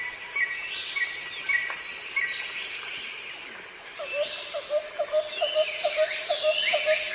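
Several birds calling together: many short calls sliding downward in pitch, a high note repeated about twice a second, and from about four seconds in a lower note repeated about three times a second.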